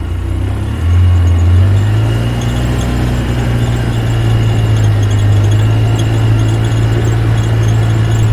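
Car engine running steadily as the car drives off, a loud low drone that swells about a second in.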